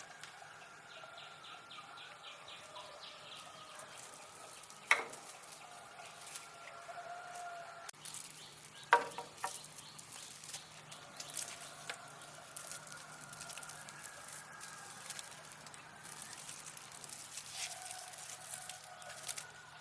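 Quiet rural ambience with birds calling faintly throughout. Two sharp knocks stand out about five and nine seconds in, and light scattered tapping runs through the second half.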